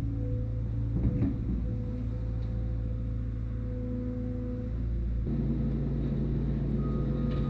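Skid steer engine running steadily, with a short knock or clank about a second in. The engine note changes abruptly about five seconds in.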